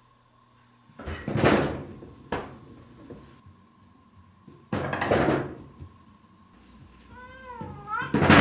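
Cat knocking on a door: bursts of rapid knocks about a second in and about five seconds in, a single knock between them, then a short meow followed by another loud burst of knocking near the end.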